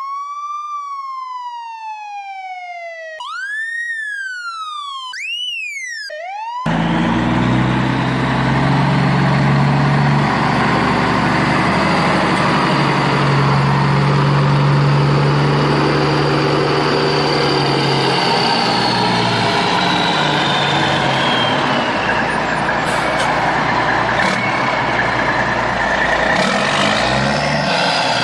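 Electronic siren wailing, a clean tone rising and falling three times, the last glide shorter, then cutting off about six and a half seconds in. A loud, steady vehicle engine with a low hum takes over and keeps running.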